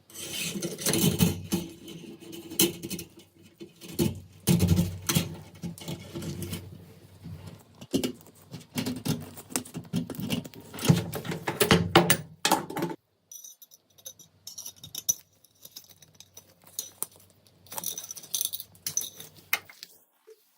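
Metal rifle parts being handled, rattling, clinking and clicking against each other in quick irregular runs, busiest in the first two-thirds, then lighter scattered clicks.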